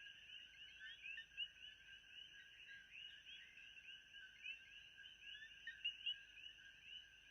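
Faint nature ambience: a dense, unbroken chorus of short high chirps from many small animals, with a steady high-pitched trill above it.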